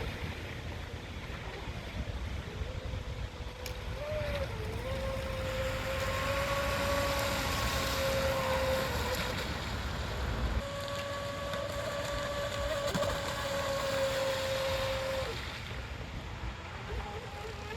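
Pro Boat Shockwave 26 RC boat's brushless electric motor whining as it runs on the water, its pitch wavering with the throttle, over a low rumble. The whine breaks off briefly about ten seconds in, and near the end it settles lower.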